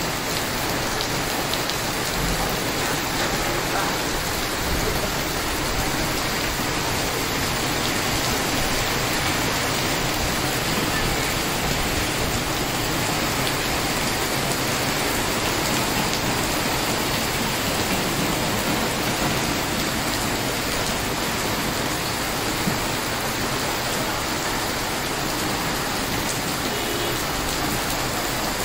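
Heavy rain falling steadily on a wet street, a dense, even hiss of drops hitting the pavement and puddles.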